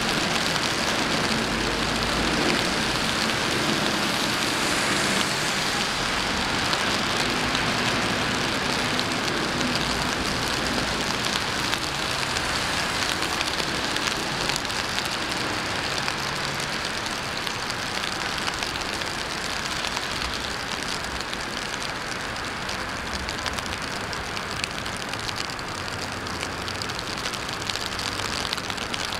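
Steady rain falling on the street, with a low hum of city road traffic underneath.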